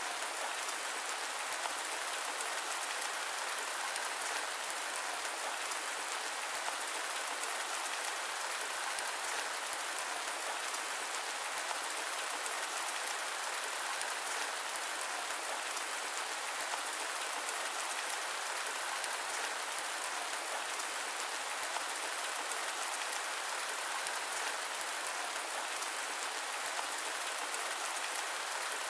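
Steady rain falling: an even hiss of many drops, with no thunder or low rumble.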